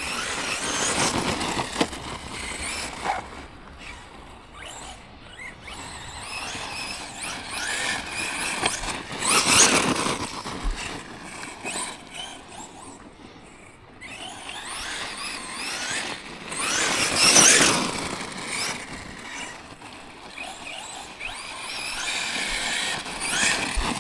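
Electric 1/10 monster truck (Tekno MT410 2.0) driving in several runs, its motor whining up in pitch as it accelerates, with tyres spinning on loose ground; the loudest bursts come about ten and seventeen seconds in.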